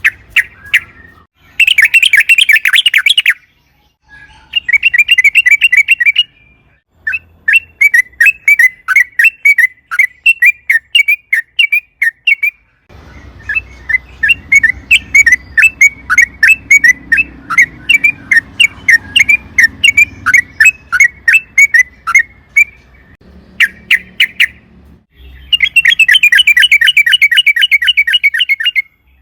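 Yellow-vented bulbul (trucukan) singing in fast rolling trills, broken by long runs of quick repeated chirps, with short pauses between phrases.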